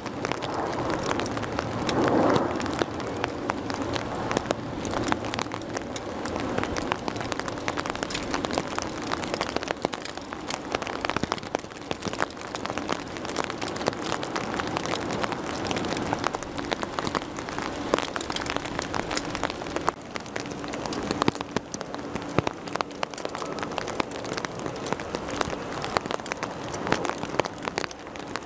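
Rain falling steadily, with many sharp drop hits close to the microphone over a constant hiss. A faint steady low hum runs underneath, and there is a brief louder swell about two seconds in.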